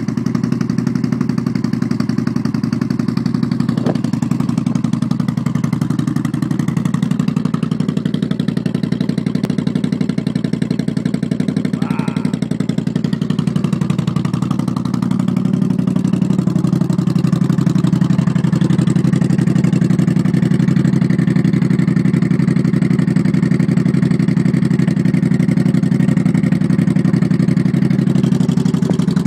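Suzuki Intruder V-twin motorcycle engine running steadily through a modified exhaust, getting a little louder from about halfway.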